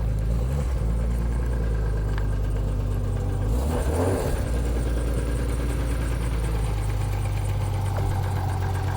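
Car engine idling steadily, with a brief rougher patch about four seconds in.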